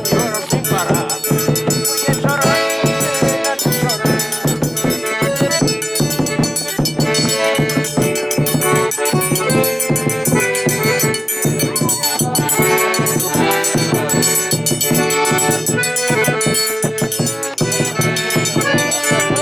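Forró pé-de-serra played live without singing: an accordion melody over a steady, driving percussion beat with a shaken rattle.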